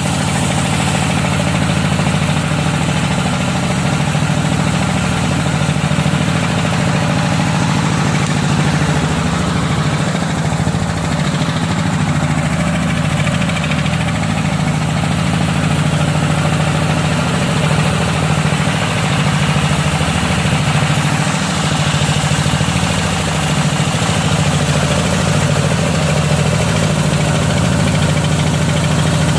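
Home-built electric-motor drilling machine running steadily, a continuous low hum that wavers slightly.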